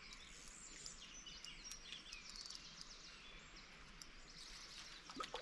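Faint birdsong: several birds chirping with short calls that rise and fall, over quiet outdoor hiss.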